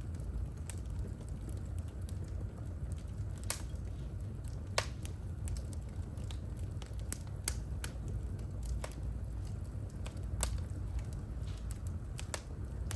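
Wood fire burning in a home fireplace: scattered sharp crackles and pops over a steady low rumble of the flames, with the two loudest pops about three and a half and five seconds in.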